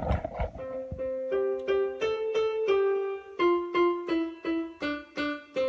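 Piano played one note at a time in a simple melody, about three notes a second, each struck and dying away, with a lower note held under the first phrase.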